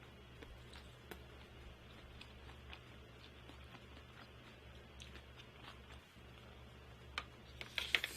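A person eating: faint chewing with scattered small mouth and food clicks, a few sharper ones near the end, over a low steady hum.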